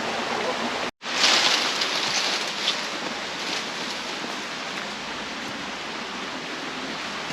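Steady rushing of running water from a creek or waterfall, broken by a brief dropout about a second in, then resuming a little louder.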